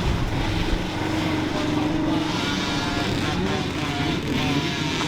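Dirt bike engines running, with their pitch rising and falling as they rev.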